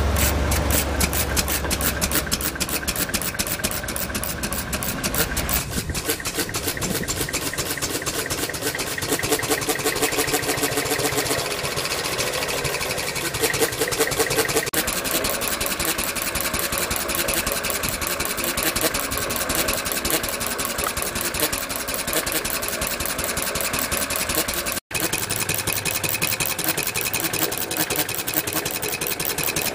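Home-built engine running steadily at a fast, even beat while it drives a permanent-magnet washing machine motor used as an alternator, with no electrical load on it yet. The sound cuts out for an instant near the end.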